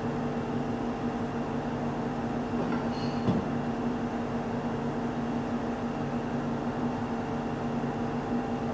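A steady mechanical hum at an even pitch, with a brief click about three seconds in.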